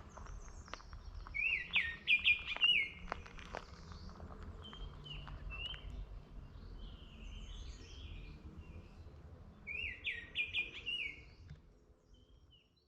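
Songbirds singing outdoors: a bright, repeated song phrase heard twice, once near the start and again about ten seconds in, with softer chirps between. A few light taps come early on over a low outdoor rumble, and the sound fades out near the end.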